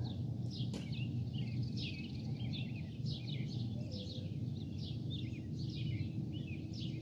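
Birds chirping over and over in many short, quick, falling calls, over a steady low rumble of outdoor background noise.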